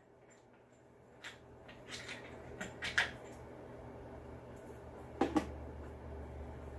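Light clicks and knocks of small screws and plastic blower-housing parts being handled and fitted, a few separate taps with a sharper double click about five seconds in. A faint low hum comes in near the end.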